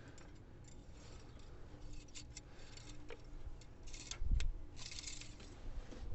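Small metallic clicks, scrapes and rustling from the engine oil dipstick being pulled out and handled, with a dull thump about four seconds in.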